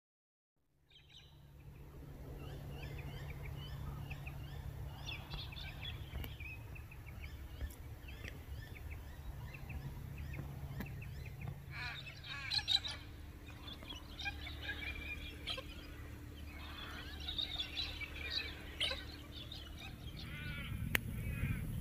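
Several bush birds chirping and calling at once over a low steady rumble, fading in from silence about a second in.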